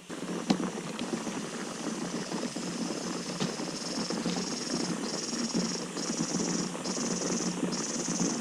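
Bicycle rolling over a rough road, a steady rattling crunch with scattered clicks. From about four seconds in, a high insect call pulses on and off about once a second.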